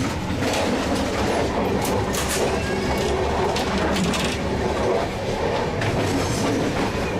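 Indian sleeper train running, heard from inside a carriage: a steady rumble of wheels on the rails with irregular clanks and rattles.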